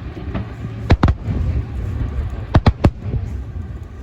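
Fireworks bursting with sharp bangs. Two come about a second in, and three follow in quick succession near the three-second mark.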